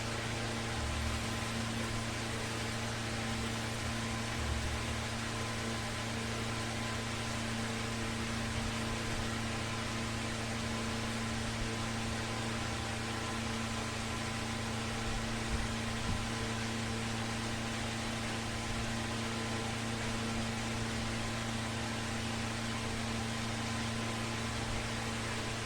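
An electric fan running steadily: an even airy hiss over a low electrical hum, with a few faint knocks.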